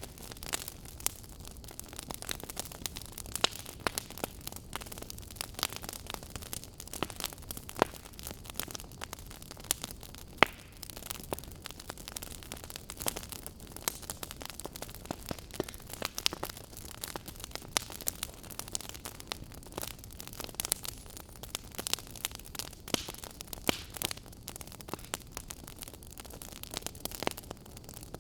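Fire crackling: irregular sharp pops and snaps, several a second and now and then a louder one, over a steady soft hiss.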